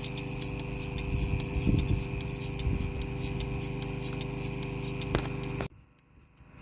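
Steady mechanical hum with frequent sharp ticks and some scraping, cutting off abruptly near the end.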